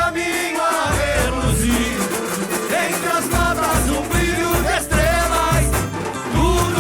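Samba-enredo performed live by a samba school: sung voices carry the melody over a drum section with heavy, regular low bass-drum beats.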